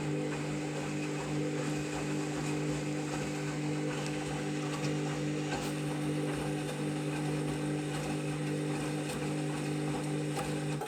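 Candy washing machine's drum motor running at a steady speed, tumbling a load of bedding, with a low hum and scattered clicks and knocks from the drum and load. It cuts off suddenly at the end of the turn.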